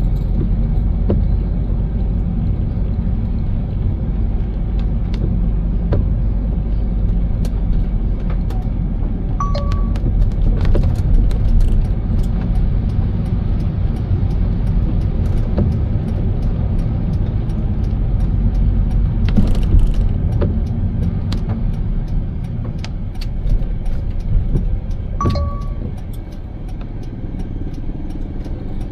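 Car road noise while driving: a steady low rumble with scattered light ticks, and a short high tone twice, about a third of the way in and near the end.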